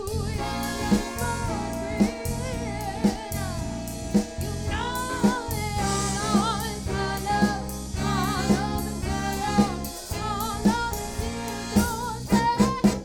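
Live soul band playing: a wavering lead melody over a drum kit keeping a steady beat about once a second. A quick drum fill comes near the end.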